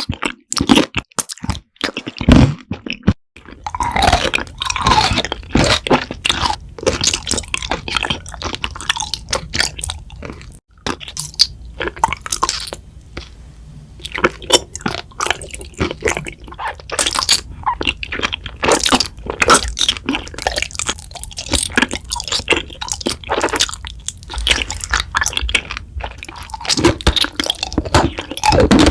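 Close-miked eating of honey jelly: crisp crunches and chewing in quick, irregular bites, with a brief break about ten seconds in.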